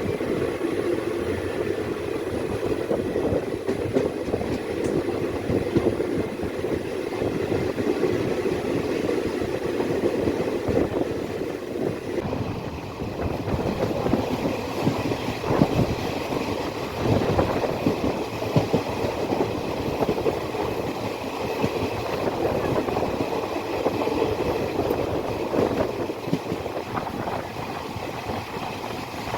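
Passenger train running along the track: a steady rumble with wheels clattering over the rails.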